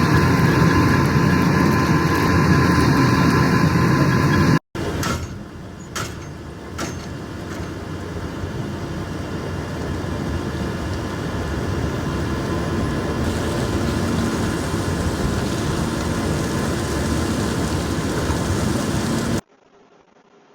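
Heavy truck running, a steady engine and road noise. After a hard cut about four and a half seconds in, a few sharp knocks, then the running noise slowly builds until it cuts off abruptly near the end.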